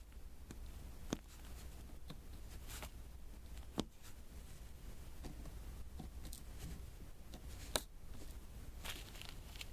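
Small plastic clicks and soft taps as resin diamond-painting drills are picked up and pressed one by one onto the sticky canvas with a drill pen. Three sharper clicks stand out, about a second in, near four seconds and near eight seconds, with a faint steady low hum underneath.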